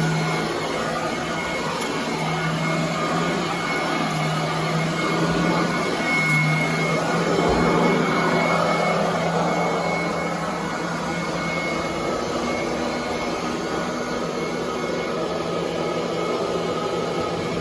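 Royal commercial vacuum cleaner running on carpet: a steady motor and airflow noise with a constant high whine.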